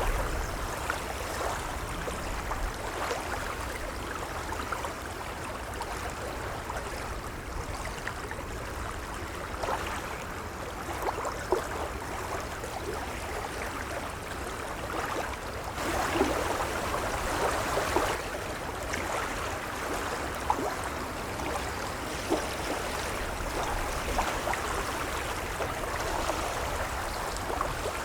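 Gentle waves lapping at the water's edge: a steady wash full of small splashes and gurgles, swelling a little louder about halfway through and again near the end.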